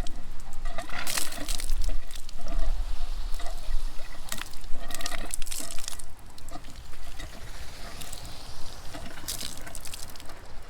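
Coesa spring spouter, a naturally carbonated mineral spring, gushing and splashing continuously. Louder surges come about a second in, midway, and near the end.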